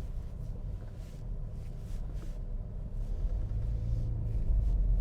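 Low rumble of a motor vehicle in street traffic, growing louder toward the end, with a brief low engine hum a little after the middle.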